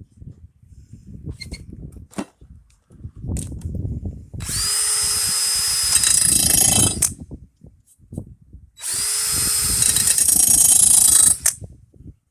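Electric drill spinning a sharpening stone against the edge of a lawn mower blade in two runs of about two and a half seconds each: a steady motor tone under a gritty grinding hiss. Low knocks from handling the blade and tool come before and between the runs.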